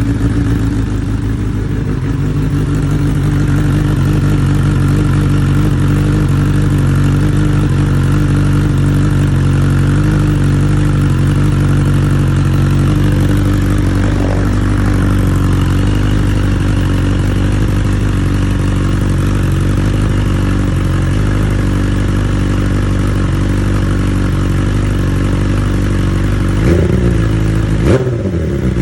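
Engine idling steadily through an Arrow exhaust with its dB killer baffle fitted, which makes it a lot quieter. Near the end it gets a few short throttle blips.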